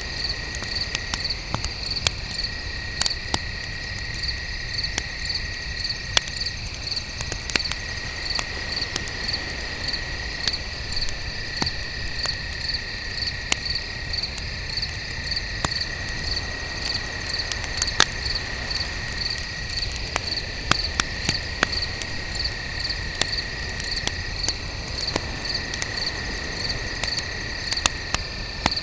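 Campfire crackling, with sharp irregular pops throughout, over crickets chirping in a steady pulsing trill and a second, lower steady trill.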